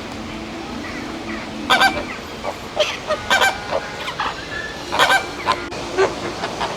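Geese honking: a run of loud, sharp honks starting a couple of seconds in, repeating irregularly.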